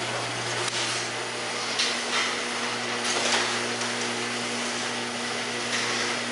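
Electric garage door opener running as it drives the door closed: a steady motor hum with a noisy clatter from the moving door, loud throughout.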